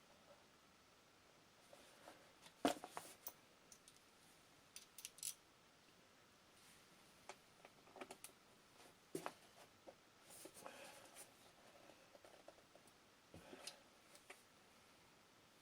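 Faint, scattered clicks and light clinks of hand tools and metal parts being handled at a workbench, with one sharper knock about three seconds in.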